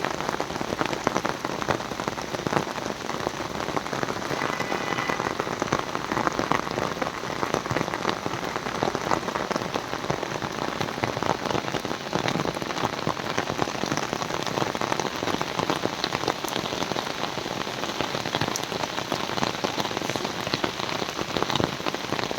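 Heavy monsoon downpour: a steady, dense patter of rain with countless individual drops.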